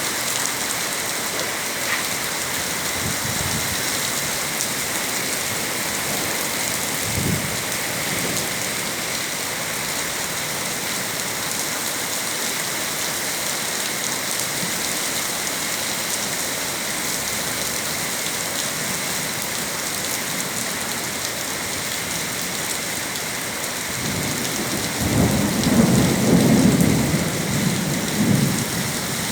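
Steady rain hissing, with thunder rumbling low and loud over the last five seconds.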